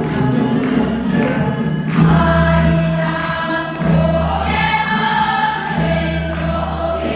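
Music: a group of voices singing long held notes over instrumental accompaniment with a steady bass line.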